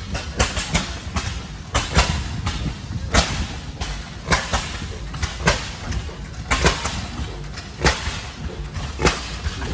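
Antique stationary gas engines running, their exhaust firing as sharp, irregularly spaced pops over a low rumble.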